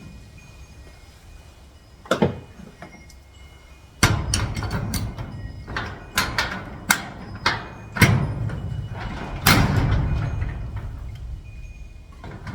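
Metal clanks, knocks and rattles of a garage door's lock hardware being worked with pliers. One clatter comes about two seconds in, then a steady run of sharp knocks from about four seconds on.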